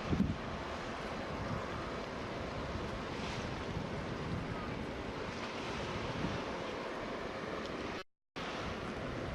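Steady wind and water noise outdoors, with wind buffeting the microphone. The sound cuts out completely for a moment about eight seconds in.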